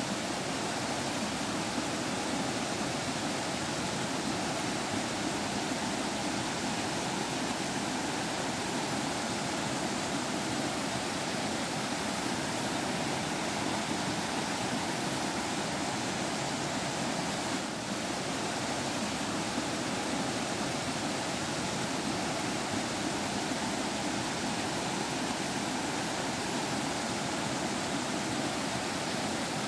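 Stream water flowing and trickling in a steady rush, with a brief slight dip a little after halfway.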